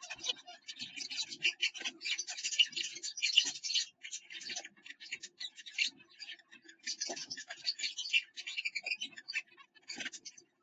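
Finch rustling and shifting nesting material inside a wooden nest box: a dense, irregular run of scratching and clicking with brief pauses.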